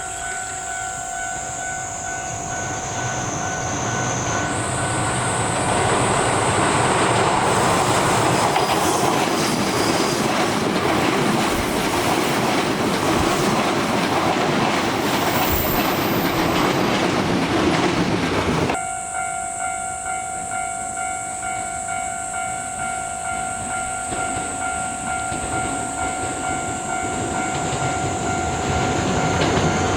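A Keikyu 1000-series electric train passes close by, its wheels clattering over the rails for about twelve seconds before the sound cuts off suddenly. Before and after the pass a steady ringing tone and a high insect-like buzz carry on, and near the end another train can be heard approaching.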